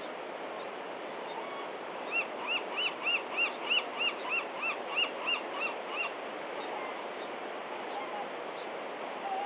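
A bird gives a rapid run of about a dozen arched calls, roughly three a second, starting about two seconds in and stopping about six seconds in, over a steady background hiss.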